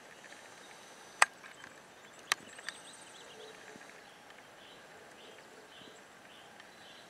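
Quiet rural outdoor ambience with three sharp knocks, the first the loudest, about a second, two seconds and two and a half seconds in. In the second half a bird calls in short, high, repeated chirps, about two a second.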